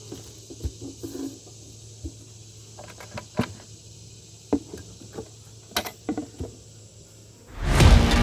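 Scattered light clicks and knocks over a steady low hum, then music comes in loudly near the end.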